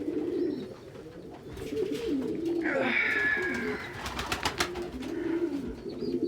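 Domestic pigeons cooing in a small loft, low warbling coos one after another. About three seconds in there is a brief higher squeak, followed by a quick run of sharp clicks.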